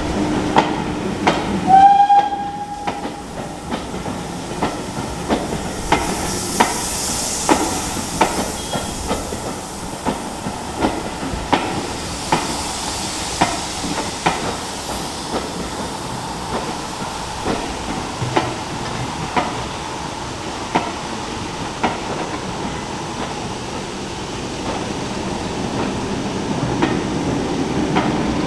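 Heritage railway train passing, its wheels clicking over the rail joints at roughly one-second intervals. A short whistle sounds about two seconds in, and there is a hiss of steam a few seconds later.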